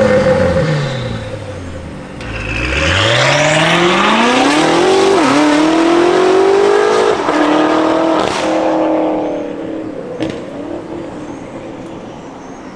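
BMW X6M's twin-turbo V8 through a catless downpipe and valvetronic cat-back exhaust. Its revs drop away, then it accelerates hard with quick upshifts about five, seven and eight seconds in. It then fades, with a couple of sharp pops near the end.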